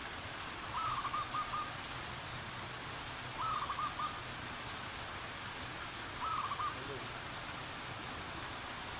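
Spotted dove (tekukur) cooing: a short phrase of a rising note and a few quick notes, given three times a few seconds apart.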